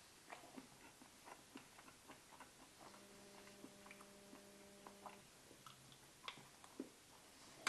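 Near silence, with faint chewing and small mouth clicks from someone eating a chocolate nut bar. A faint steady hum comes in for about two seconds in the middle.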